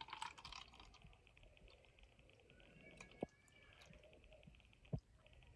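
Near silence: room tone, with two faint short knocks, about three and five seconds in.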